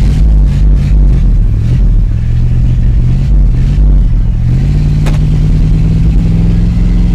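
1984 Dodge Ram's carbureted gasoline engine running unevenly, its speed climbing about four and a half seconds in and then holding higher. The truck has an unsolved fuel or ignition fault that keeps making it stall.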